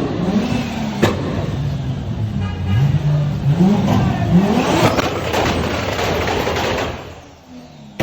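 Nissan Silvia's engine revving in repeated blips, its pitch rising and falling each time, with a couple of sharp pops near the start. It gets louder and harsher from about five seconds in, then falls away sharply about seven seconds in.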